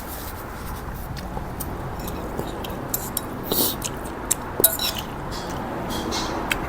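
Someone eating noodle soup: scattered sharp clicks of utensils against a bowl and short slurps, busiest in the middle, over a steady background noise.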